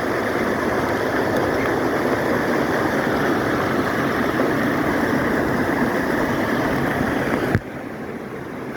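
Stream water rushing steadily over rocks, as a continuous even rush that drops suddenly to a quieter level after a click about seven and a half seconds in.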